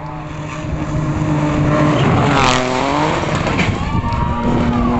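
Rally car engine running hard as the car approaches and passes, loudest about halfway through, where the engine pitch dips sharply and climbs again as it goes over a jump, with a short sharp noise at the same moment.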